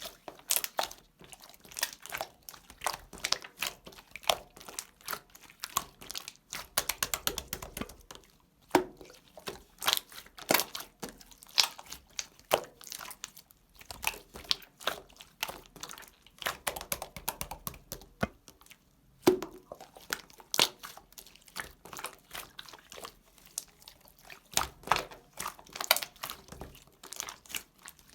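Slime being squeezed and worked by hand, making irregular sticky clicks and small pops, with a quick rapid run of clicks about seven seconds in.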